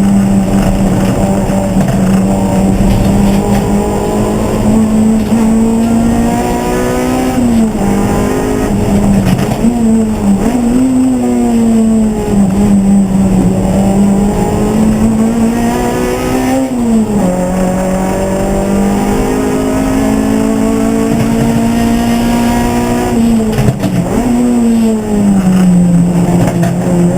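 Race car engine running hard, its note held high and steady, dropping briefly and climbing again about four times as the car brakes and accelerates.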